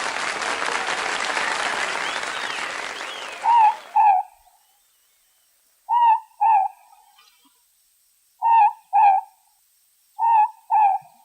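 Morepork (ruru) calling its two-note 'more-pork' hoot four times, each pair of notes about two and a half seconds apart. Before the first call, a rush of noise fades out.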